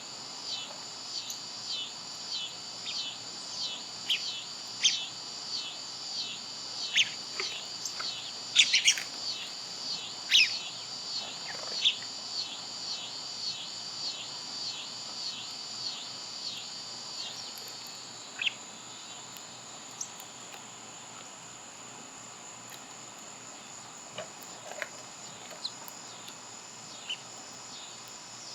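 Small birds chirping with sharp, scattered calls, the busiest about a third of the way in. Beneath them a high call repeats about twice a second until a little past halfway, over a steady high insect drone.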